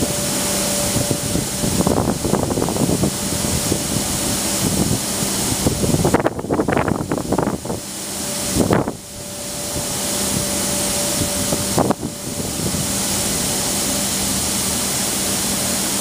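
Freight cars of a mixed freight train rolling past close by: a continuous rush of steel wheels on rail with a faint steady hum, broken by clusters of clicks and clacks as wheelsets pass, about 2, 6, 9 and 12 seconds in. Wind buffets the microphone.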